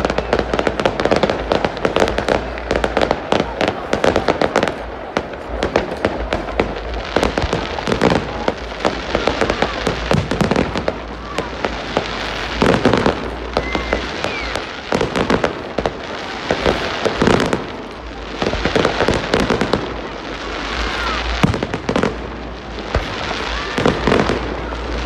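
Fireworks display: a continuous run of bangs and crackling from bursting aerial shells, with a few short whistles.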